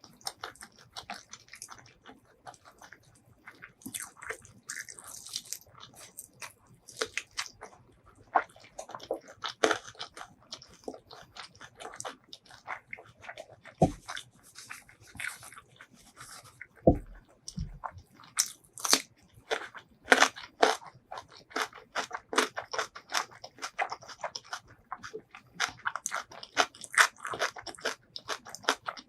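Close-miked eating: irregular crunching bites and chewing of crisp fried chicken, with a few short low knocks about halfway through.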